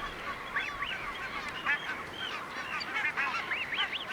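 Barnacle goose breeding colony calling: many short, overlapping calls, with parent geese calling to their chicks.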